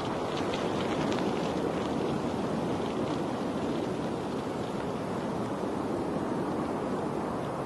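Steady rushing water, with faint light splashing ticks in the first few seconds.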